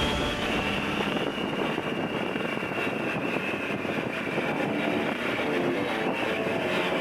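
Triumph motorcycle engine running on the move, with a steady note whose pitch slowly falls, as when easing off the throttle.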